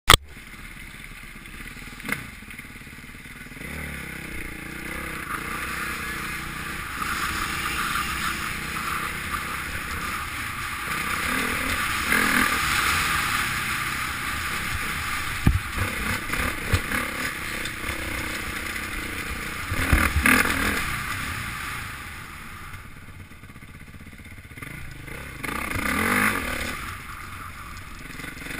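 Motocross bike engine revving up and down over and over as the rider accelerates and backs off around the track, with heavy wind noise on the helmet-mounted microphone. A couple of sharp knocks cut through.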